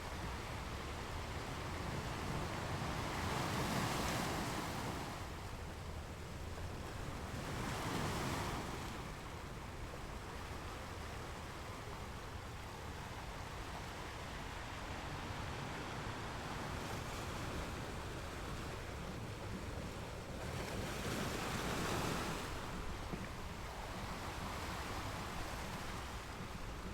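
Ocean surf: a steady wash of waves with a few louder swells as waves break and roll in.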